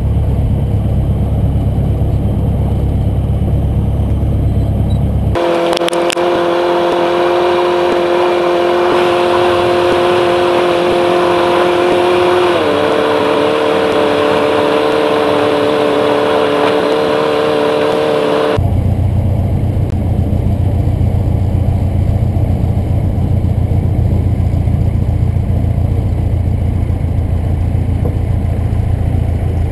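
The Cessna 150's four-cylinder Continental O-200 engine and propeller running steadily as a deep drone. About five seconds in, the sound switches abruptly to a higher, steady hum, which drops a little in pitch about halfway through. Near eighteen seconds in, the deep drone returns just as suddenly.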